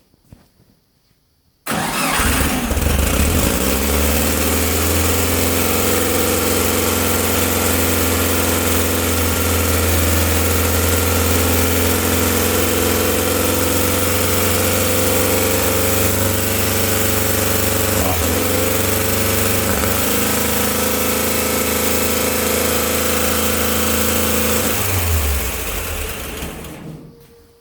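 VW engine with a 69 mm crank and a Weber progressive carburettor starts about two seconds in and catches at once. It runs steadily for over twenty seconds, then is shut off and dies away near the end.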